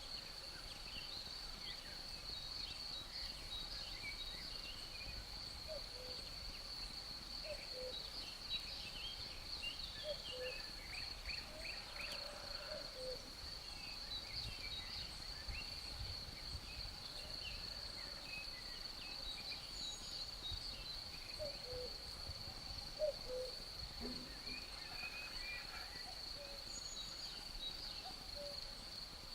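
Forest ambience: crickets trilling steadily, small birds chirping here and there, and a cuckoo repeating its low two-note call every couple of seconds.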